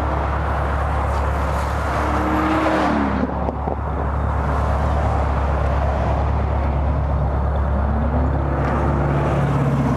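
Car engine droning steadily under a haze of road and wind noise. The engine note drops about two to three seconds in and climbs again near the end.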